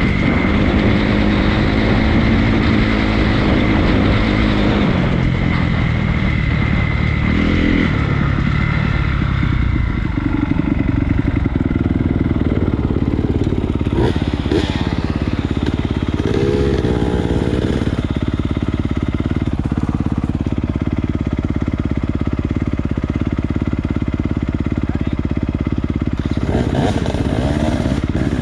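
Honda CRF250 dirt bike's single-cylinder four-stroke engine on the move. The pitch rises and falls over the first several seconds, then holds steadier, with wind rush on the microphone throughout.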